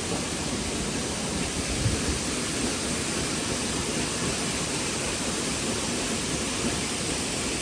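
Steady rushing of a waterfall running high after days of rain.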